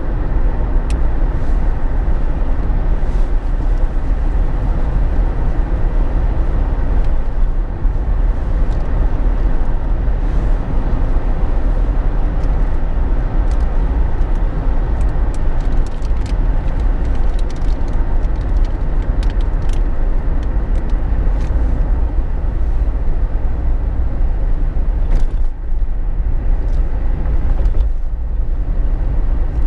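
Steady low rumble of road and engine noise inside the cabin of a Jeep Wrangler JK while it drives, with a few faint ticks now and then.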